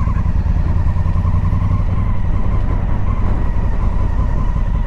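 Honda Africa Twin motorcycle being ridden at a steady pace, its engine running evenly under a heavy, steady low rumble.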